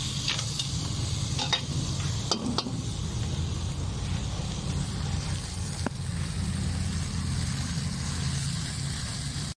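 Talangka crabs cooking in a pan with a steady sizzle and a few sharp clicks of a utensil stirring, over a low steady rumble.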